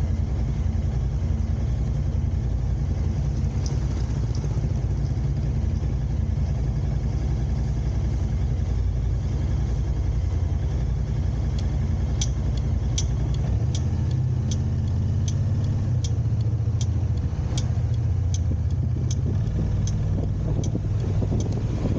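Steady low rumble of a car's engine and road noise heard from inside the moving car. About halfway through, a turn-signal indicator starts ticking at an even pace of just over one tick a second.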